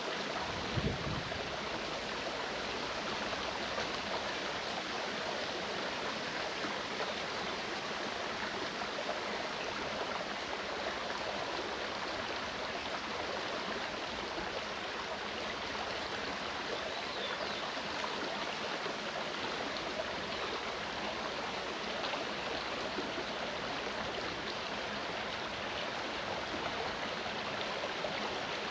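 Clear mountain stream flowing, a steady rush of water, with a brief low thump about a second in.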